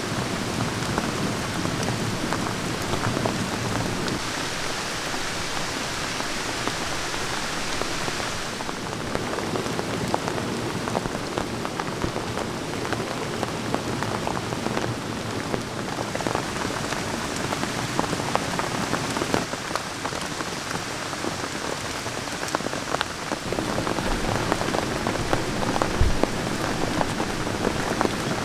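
Steady rain falling, with many single drops ticking close by and a few heavier drop hits near the end.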